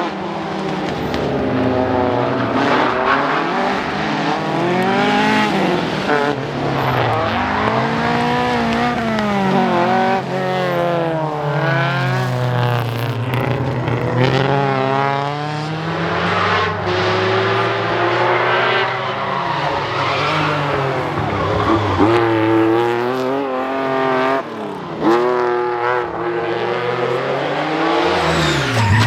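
Rally car engines revving hard, their pitch climbing and falling again and again through gear changes and lifts.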